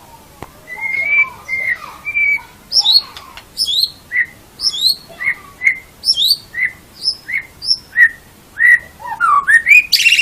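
White-rumped shama (murai batu) singing: a quick run of clear whistled notes, about two a second, some sweeping down from high, with a louder, harsher note near the end before the song cuts off suddenly.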